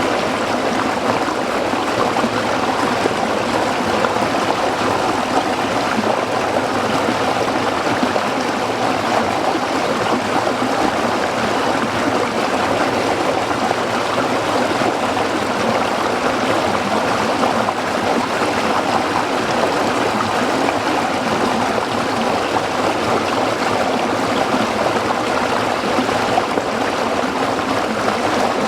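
A small stream flowing and splashing over rocks, a steady babbling rush of water.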